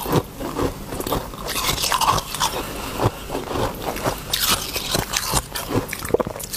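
Close-up biting and chewing of ice with the teeth: a quick, irregular run of crunches and crackles.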